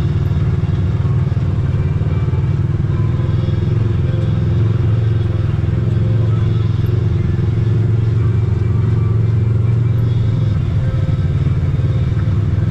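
Side-by-side UTV engine running at a steady pace on an off-road trail, a constant low drone that holds even throughout.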